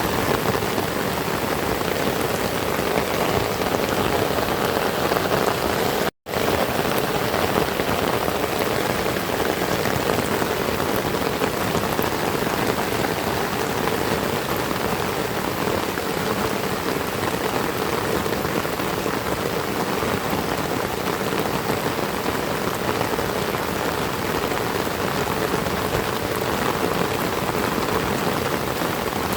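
Heavy rain falling and pattering on surfaces in a steady, dense hiss, broken by a momentary gap of silence about six seconds in.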